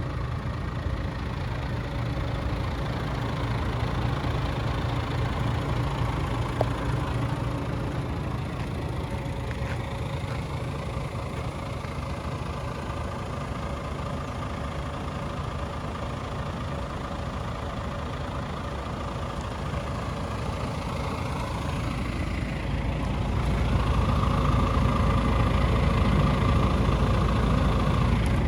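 DAF CF 450's Paccar straight-six diesel idling steadily, growing louder and fuller about three quarters of the way through.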